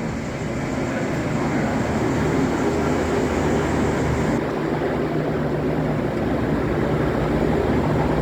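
Diesel passenger train running at a station platform, its engines humming steadily and growing a little louder, over a steady hiss of rain.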